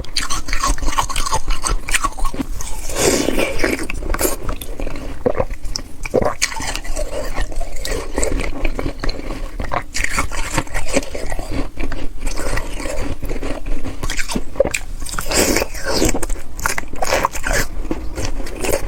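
Ice slush from a frozen water bottle being bitten and chewed close to the microphone: loud, irregular crunches one after another throughout.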